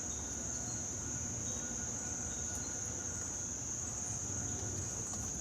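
Outdoor insect chorus: a steady, unbroken high-pitched trill over a faint low rumble.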